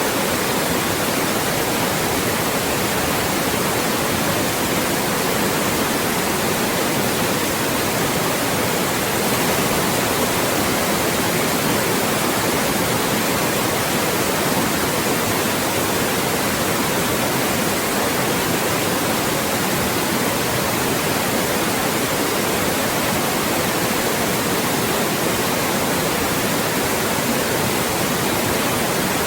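Loud, steady white noise: an even, unchanging hiss spread across all pitches, used to mask speech.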